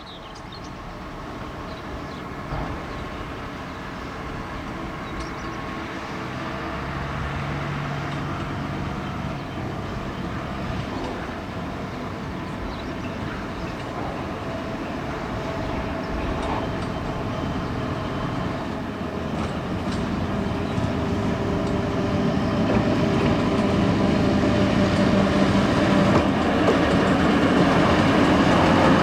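TGM40 diesel-hydraulic shunting locomotive, its diesel engine running steadily and growing louder throughout.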